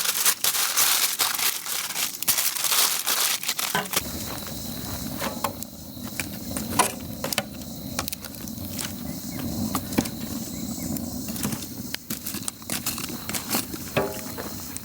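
Dense crinkling, crushing handling noise. About four seconds in it changes abruptly to quieter scattered crackles and clicks over a low steady hiss.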